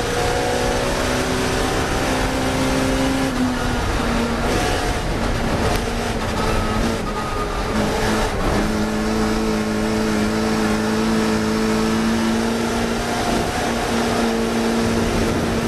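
Classic Mini race car engine running hard at high revs. Its note holds mostly steady, with a dip about three seconds in and another break about halfway through before it settles again.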